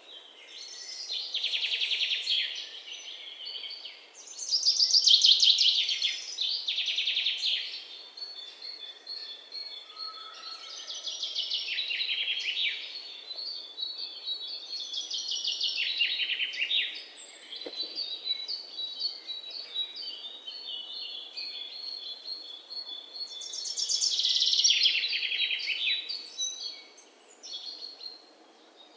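Songbirds singing: fast, high trills that come in bursts of a few seconds, with a thin run of quick repeated high notes between them.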